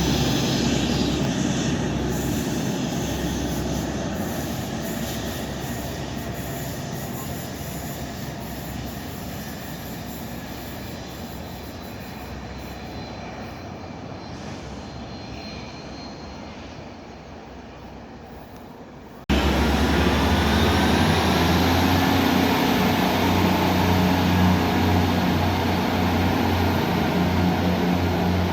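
A passing train's noise fading steadily away over about twenty seconds. After an abrupt cut, a train's engines run steadily at the platform with a low hum, and a high whine that rises and then holds.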